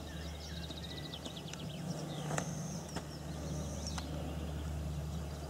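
Quiet outdoor ambience with a steady low hum. A small bird trills rapidly in the background during the first couple of seconds, and there are a few faint clicks.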